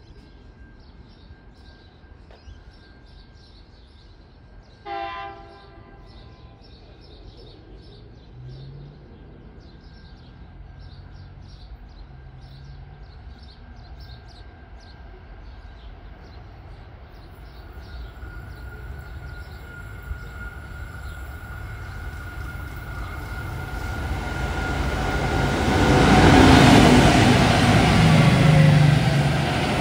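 Freight train hauled by SCT Logistics diesel locomotives approaching and passing: a short horn blast about five seconds in, then the locomotives' engine rumble growing steadily louder, loudest near the end as they go by.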